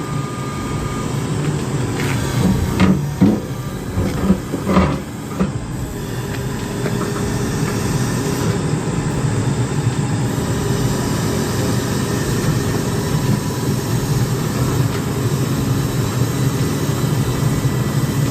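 Heavy machinery's diesel engine running steadily under load, with a few short knocks or clanks in the first five seconds.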